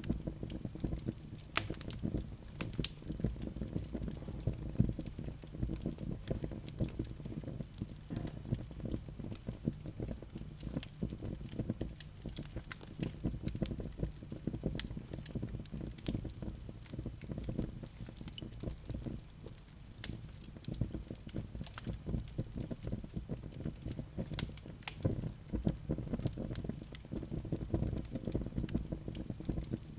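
Wood fire crackling in a fireplace: a steady low rumble of burning with many irregular sharp pops and snaps.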